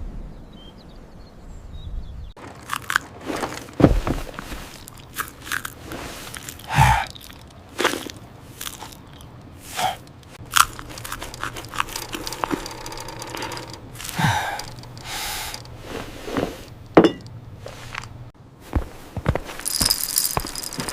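A long string of irregular crunching, clicking and knocking noises, some sharp and loud, starting about two seconds in after a fading low rumble.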